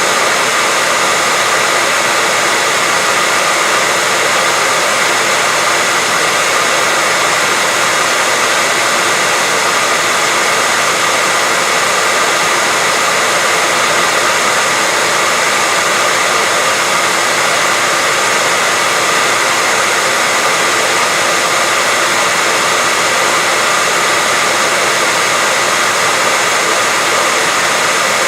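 Continuous white noise: an even, unchanging hiss, strongest in the upper-middle range, with a faint steady tone running through it.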